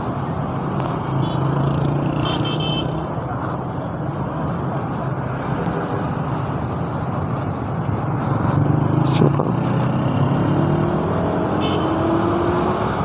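Motorcycle engine running steadily at low speed under road and wind noise, its pitch rising gradually in the last few seconds.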